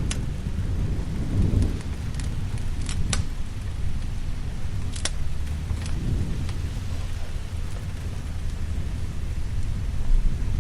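Steady rain with low rolling thunder that swells near the start and again around six seconds in, and a few sharp pops from a crackling fire.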